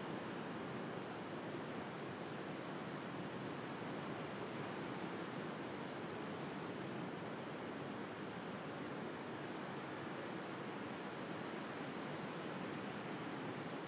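Steady wash of sea waves, with faint, scattered crackles of a wood fire.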